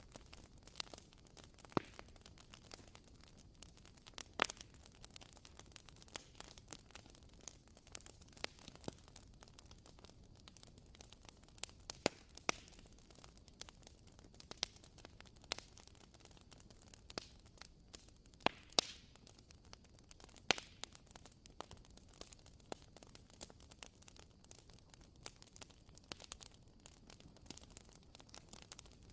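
Wooden-wick candle crackling like a small campfire: irregular soft pops and ticks, a few sharper ones now and then, over a faint hiss.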